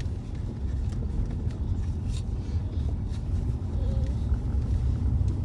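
Car interior: a steady low rumble of engine and road noise while the car drives slowly, with a few faint light clicks.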